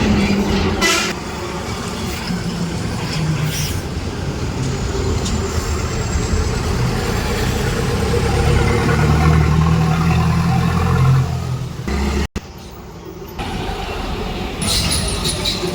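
Truck engine and road noise: a steady low engine drone that swells for a couple of seconds before breaking off abruptly about twelve seconds in, then carrying on quieter.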